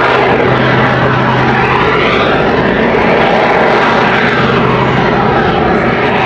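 Jet-augmented Pitts Special aerobatic biplane flying its display, its propeller piston engine and jet engines running loud, the pitch of the noise rising and falling as it passes.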